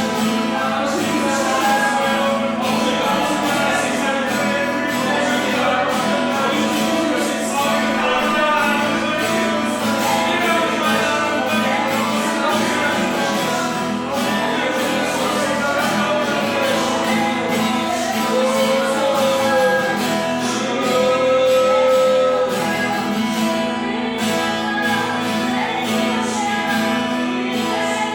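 Worship music: singing with guitar accompaniment.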